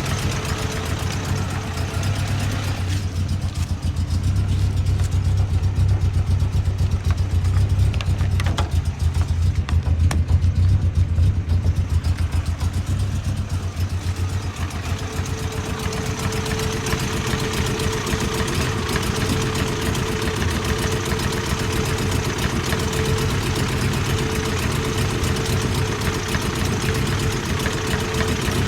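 Toyota 22R four-cylinder engine idling roughly, with a steady low, rhythmic running sound. From about three to fourteen seconds in it sounds deeper and a little louder.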